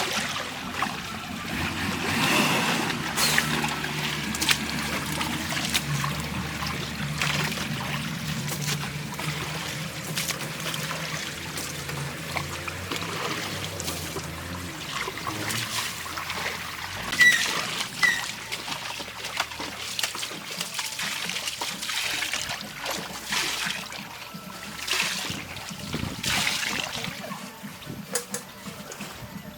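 River water splashing and trickling, with several louder splashes, around a backhoe loader standing in the water. A low steady hum runs under the first half and fades out about halfway through.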